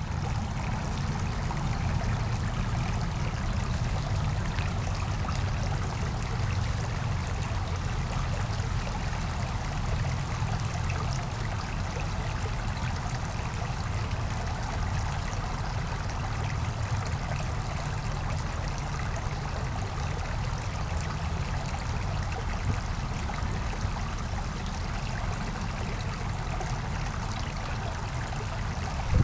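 A small brook flowing and babbling steadily over its bed, with a steady low rumble underneath.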